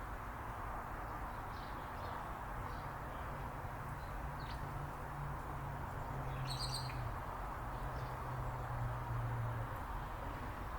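Small birds chirping briefly, with a short cluster of high calls about six and a half seconds in, over a steady background hiss and a low hum that grows louder through the middle.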